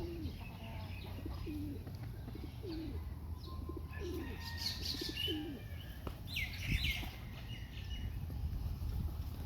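Flock of pigeons coming back to land, wings flapping, with repeated short low coos and some higher chirps near the middle.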